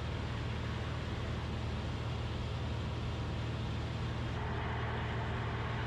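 Cessna 172RG's four-cylinder Lycoming engine and propeller droning steadily in level flight, heard inside the cabin.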